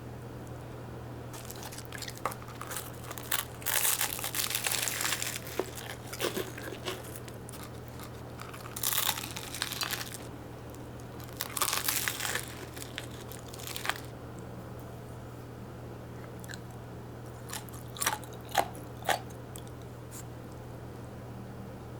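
Crisp crunching and rustling in several short bursts, followed by a few sharp clicks near the end, over a steady low hum.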